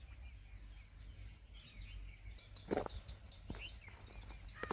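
Quiet pondside ambience: faint bird chirps over a steady high insect hiss and a low rumble. There is a sharp click or knock about two and a half seconds in, and fainter ones about a second later and near the end.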